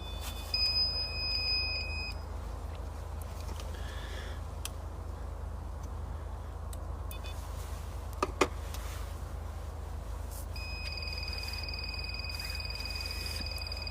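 Steady high electronic beep from a ghost-hunting gadget, sounding for about a second and a half near the start and coming on again about ten and a half seconds in, holding to the end. Two quick clicks a little after eight seconds, over a steady low rumble.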